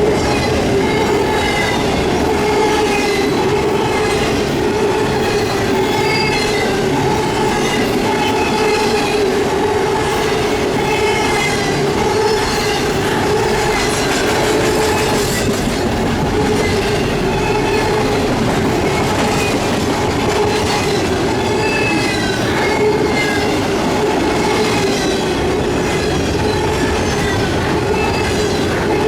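Train cars rolling steadily past at close range, the wheels clacking and squealing in a rhythm that repeats about every second or so as each car goes by.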